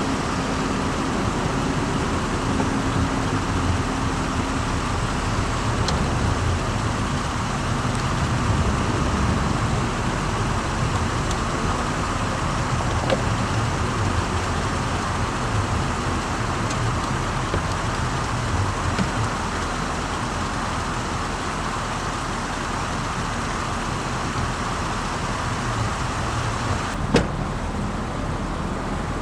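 A 2007 Chevrolet Corvette with its aluminum LS2 V8 being driven at a steady pace: an even mix of engine and road noise, with one sharp click near the end.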